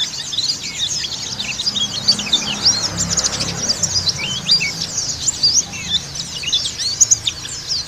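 Pleci (Zosterops white-eye, 'dakun Bali' type) singing a fast, continuous twittering song of short, high chirps packed closely together.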